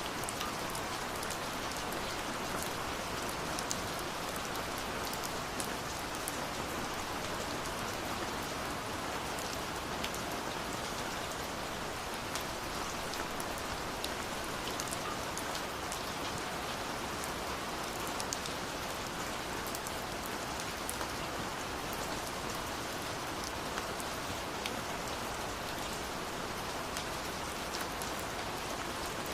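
Steady rushing water of a waterfall mixed with the scattered small crackles and pops of a burning wood fire.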